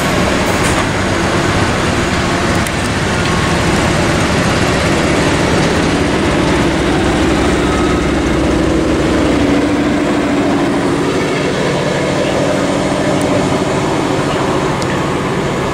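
Passenger train of coaches rolling past and pulling away: a steady rumble and rush of wheels on rails, with a low hum that grows stronger in the middle.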